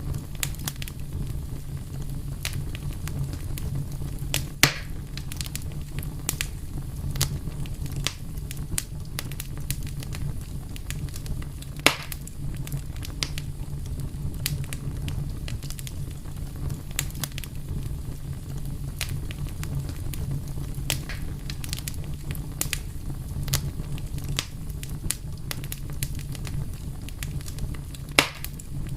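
Wood fire crackling, with a steady low rumble of flames under frequent small snaps and three louder pops.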